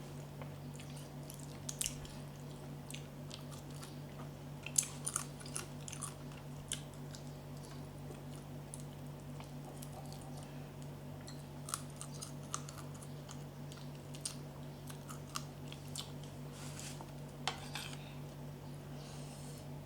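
A person chewing mouthfuls of pounded santol salad, with irregular crunches and wet mouth clicks. A steady low hum runs underneath.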